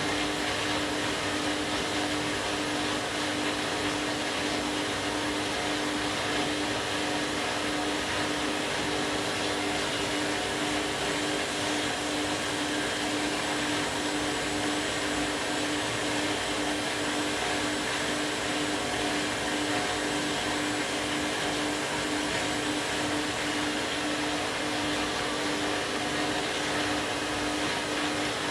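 Candy washing machine running steadily on an empty bleach-cleaning cycle: a constant motor hum with one unchanging low tone over an even rush of noise.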